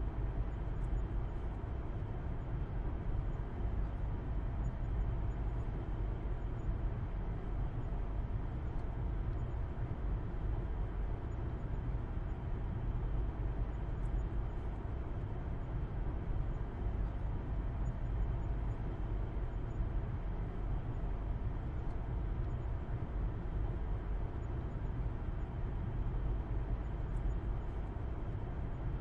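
Steady road and engine rumble of a car being driven at a constant speed, a low, even drone with no gear changes or revving.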